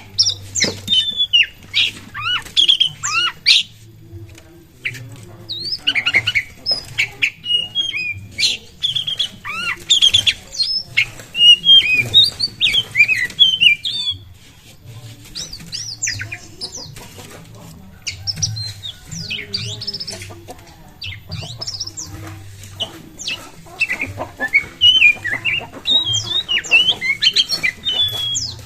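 Oriental magpie-robin singing a rapid, varied run of sharp whistles and chattering notes in bursts of a few seconds, with short pauses between them.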